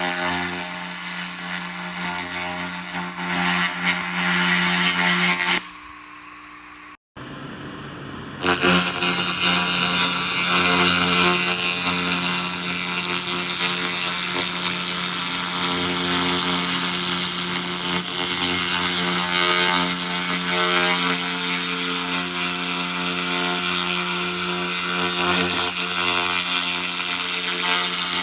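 SFX 2000 W laser rust remover ablating rust off metal: a harsh steady hiss-crackle over a constant machine hum. The sound drops away about six seconds in, cuts out briefly, and comes back at full strength about two seconds later.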